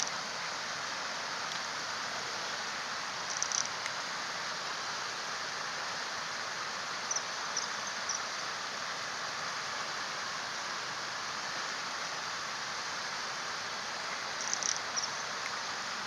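Common kingfisher giving short, high-pitched calls in quick little clusters three times, over the steady rushing of a stream.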